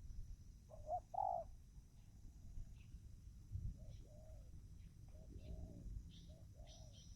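Spotted dove cooing: a few low, soft coo phrases in a row, with a small bird chirping faintly in high notes near the end.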